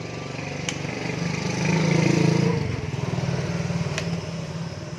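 A small engine running with a steady hum, swelling to its loudest about two seconds in and then easing off, with a couple of sharp clicks.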